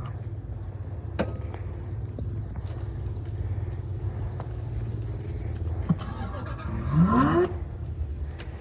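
Kids' electric motorbike riding with a steady low drone, and its sound module plays a short rising engine-rev effect about seven seconds in.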